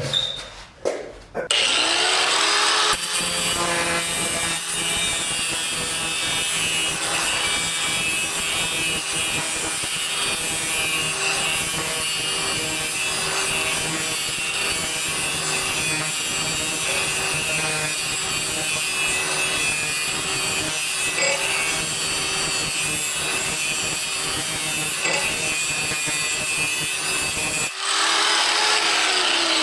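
Angle grinder spinning up about a second and a half in, then grinding steadily along the edge of a SCAG lawn mower blade to sharpen it. The sound is extremely loud and dips briefly near the end before carrying on.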